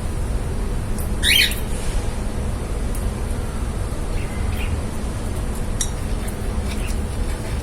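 Lovebird giving one loud, short, rising squawk about a second in, then a few faint short chirps, over a steady low background rumble.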